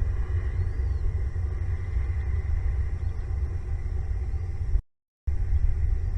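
Steady low rumble that cuts out completely for about half a second near the end.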